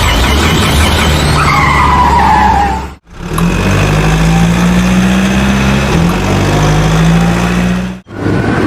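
Vehicle sound effects: a steady engine drone with a falling tyre squeal in the first few seconds. The sound cuts out abruptly about three seconds in and again near the end, each time coming back as a different engine hum.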